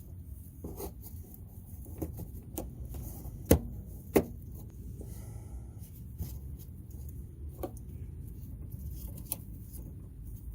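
Scattered clicks and knocks of hands and tools working on car body parts and plastic clips, with two sharper knocks about three and a half and four seconds in, over a low steady rumble.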